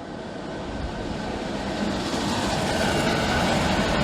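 Class 90 electric locomotive hauling a passenger train into the platform, its running noise growing steadily louder as it approaches, with a steady mid-pitched hum over the rush of wheels on rail. The locomotive is very ill sounding.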